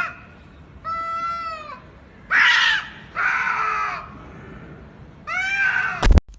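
A cat meowing loudly, four long drawn-out calls that rise and fall in pitch, the second the loudest and harshest. A sharp click near the end.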